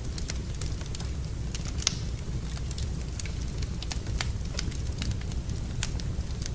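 Wood fire burning in a fireplace: irregular sharp crackles and pops, the loudest about two seconds in, over a steady low rumble.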